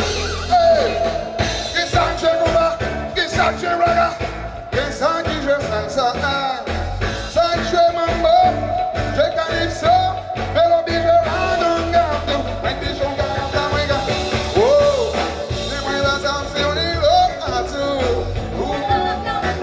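Live band music with a lead singer: a sung melody of long held and gliding notes over a steady bass beat.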